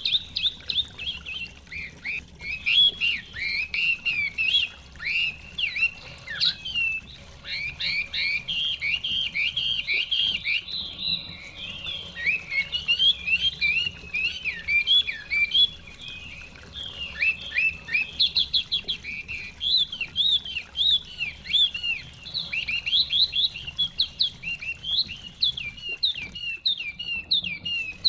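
Chinese hwamei (họa mi) singing: a continuous run of rapid, varied chirps and sweeping whistled notes, with a brief lull in the middle.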